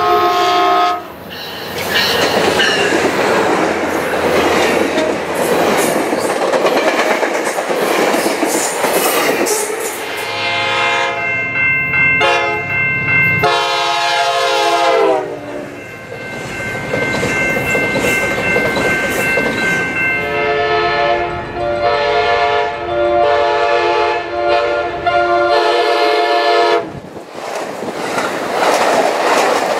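Diesel passenger trains passing at speed, their air horns sounding several times. A horn chord cuts off about a second in, followed by the loud rush and wheel clatter of a passing train. Another horn chord starts about ten seconds in and drops in pitch as the locomotive goes by. Later a horn sounds in several blasts, and near the end the cars rush past close by.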